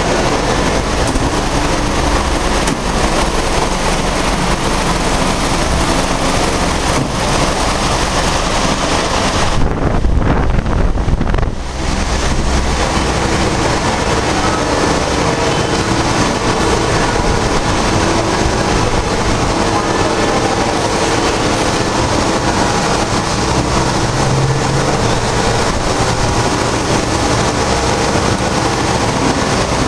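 Loud, steady noise of workshop machinery running. About ten seconds in, the hiss drops away for about two seconds while a deep rumble swells, then the steady noise resumes.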